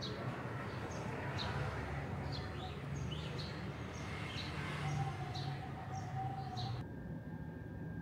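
Small birds chirping in short, repeated calls over a low steady rumble. About seven seconds in, the birdsong cuts off and gives way to a quieter steady hum.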